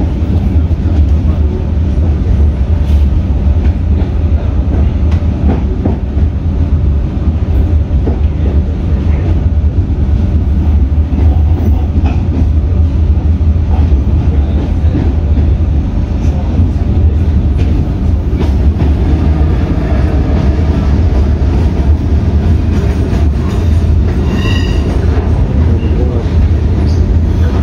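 Comeng electric suburban train running, heard from inside the carriage: a loud, steady low rumble of wheels on rails, with faint clicks over rail joints. A brief high-pitched tone comes about 24 seconds in.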